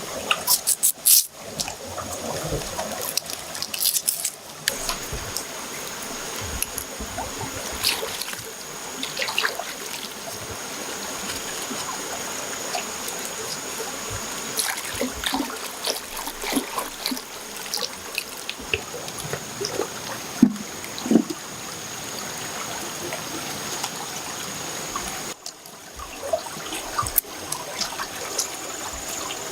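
Water trickling and splashing steadily, with many small clicks and knocks, and a thin high steady tone running underneath.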